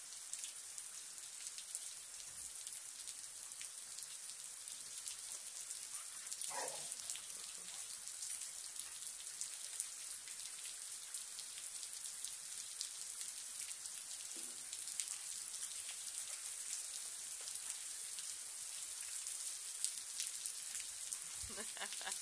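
Steady rain falling on a wet brick-paver patio: an even hiss made of many small drop impacts.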